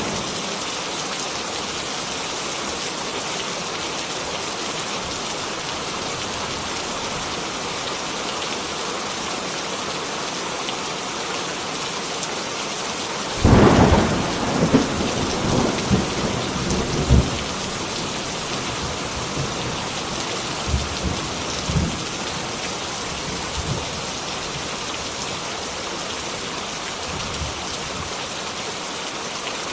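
Heavy rain falling steadily. About thirteen seconds in, a sudden crack of thunder breaks out and rolls on in rumbles for a few seconds, with a few fainter rumbles later.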